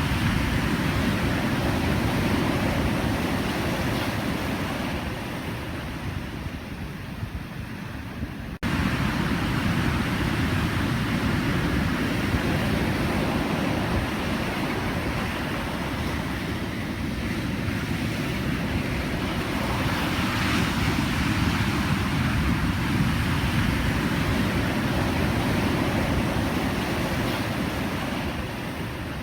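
Pacific Ocean surf: a steady wash of breaking waves that swells and ebbs over several seconds. About a third of the way in, the sound jumps abruptly louder at a splice in the recording.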